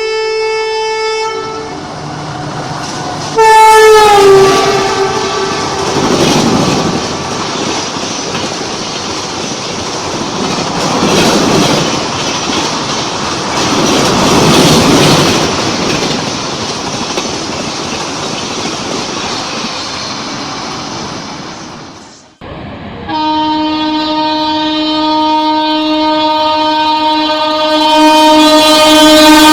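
A train horn sounds, then a second, loud horn whose pitch drops as the train rushes past at speed, the cars passing in a long noisy roar that swells and fades. After an abrupt cut, another train horn sounds long and steady and drops in pitch at the end as that train passes.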